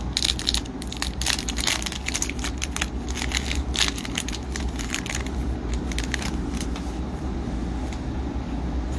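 Crinkling and rustling of a foil trading-card pack and the cards being handled, in quick crackly bursts that thin out about halfway through, over a steady low hum.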